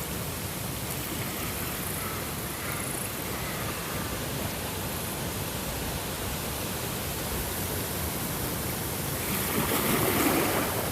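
Steady rushing water, an even hiss with no pitch, swelling louder near the end.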